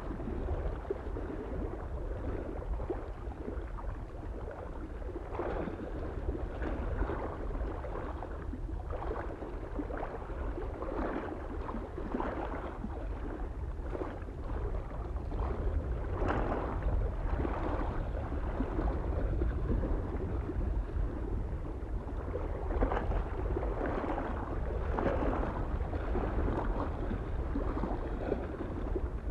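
Small waves lapping and splashing against a lake shore in an irregular rhythm, over a steady low rumble of wind.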